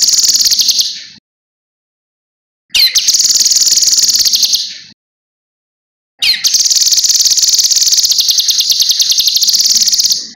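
A cucak kinoi songbird singing in three bouts, each opening with a short sweeping note and running into a fast, even, high-pitched trill. It breaks off about a second in, starts again near the three-second mark, and sings a longer bout over the last four seconds.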